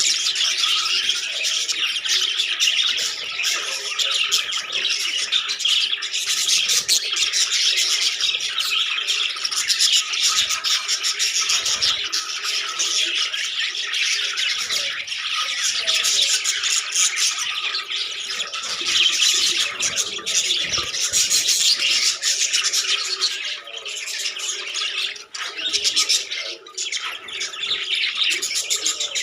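A flock of budgerigars chattering and squawking without a break, many birds calling over one another.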